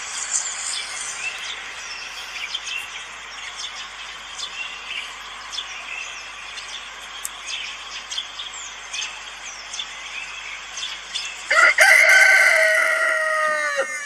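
Birds chirping over a light outdoor hiss, then a rooster crows once, long and loud, near the end, the call falling away as it finishes.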